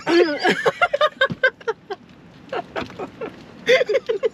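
People laughing in quick pitched bursts: a long run of laughter in the first couple of seconds and a shorter burst near the end.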